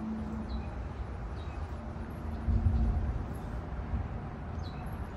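Outdoor background noise: a low rumble that swells about two and a half seconds in, with a faint steady hum.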